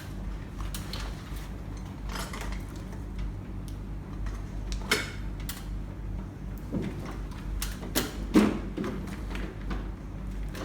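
Irregular clicks and knocks of hard objects being handled, the sharpest about five seconds in and a cluster near eight seconds, over a steady low hum.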